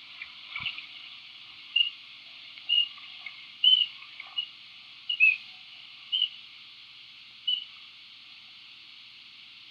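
Short bird chirps, about eight of them, one every second or so, over a steady high hiss.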